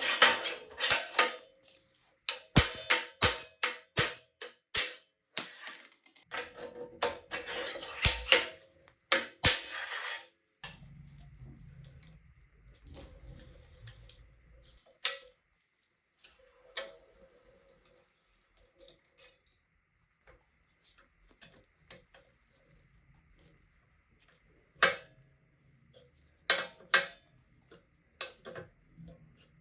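Metal parts and tools clinking and scraping: a quick run of sharp strokes for about ten seconds, then scattered single clicks and taps.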